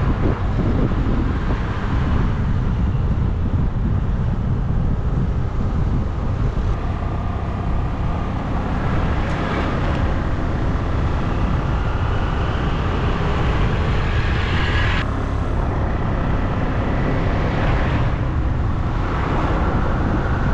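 Steady wind rush and road noise from riding a two-wheeler, with the low end dense and constant. Brief louder swells come about ten seconds in and again near the end.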